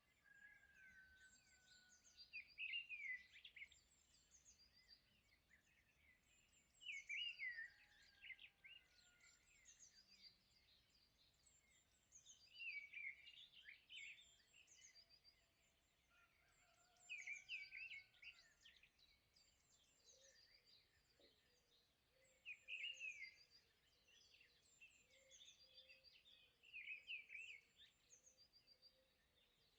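Faint bird chirping and twittering: bursts of quick high chirps and short whistles, repeating about every four to five seconds over soft background noise.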